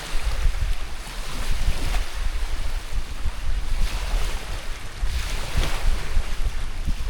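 Small waves washing onto a river shore, the wash swelling about four seconds in and again a little later, with wind buffeting the microphone throughout.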